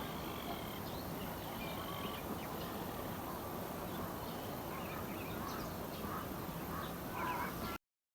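Birds calling in short, scattered notes over a steady outdoor hiss; the sound cuts off suddenly near the end.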